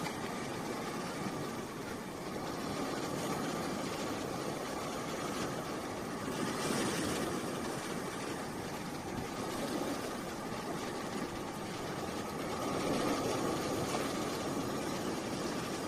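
Boat engine idling steadily, with a brief swell of hiss about six and a half seconds in.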